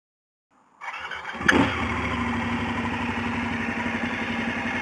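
Motorcycle engine cranking briefly and catching with a sudden burst about a second and a half in, then idling steadily.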